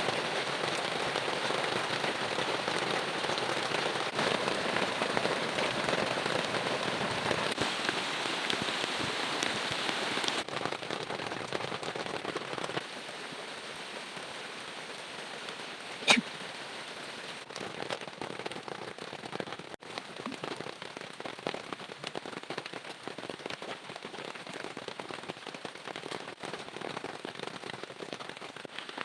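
Heavy rain falling steadily, a dense crackling patter of drops, louder for the first ten seconds and lighter after. A single sharp knock about sixteen seconds in.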